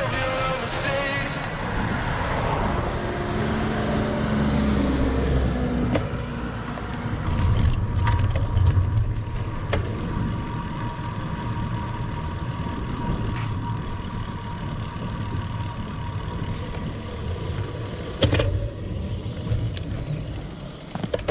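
Background music fades out in the first couple of seconds, giving way to motor-vehicle road noise: a low rumble with a steady faint whine and a few sharp clicks.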